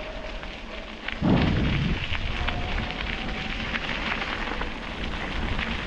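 Steady crackling, rumbling noise of riding along a canal towpath: wind buffeting the action camera's microphone over the crunch of tyres on the rough path, with a louder rumble about a second in.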